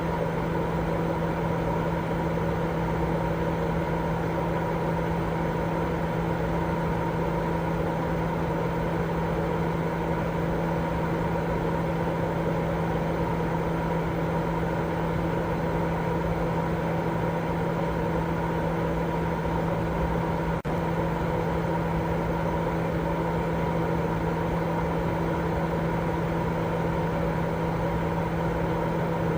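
Continuous baby-sleep white noise: a steady, even hiss with a low hum and a higher steady tone in it, like a running appliance. There is one brief dip, likely a loop splice, about twenty seconds in.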